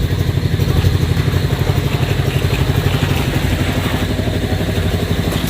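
Engine running steadily at an even speed, with a fast, regular throb.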